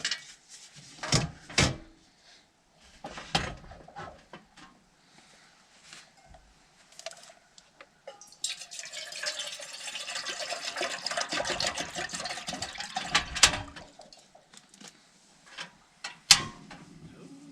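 Water poured into a pot for about five seconds, to be heated. Before and after it come a few sharp knocks of gear being handled.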